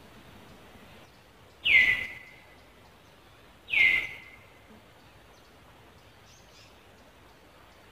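A bird calling twice, about two seconds apart: each call is a loud, short note that slides down in pitch and levels off, over faint steady background noise.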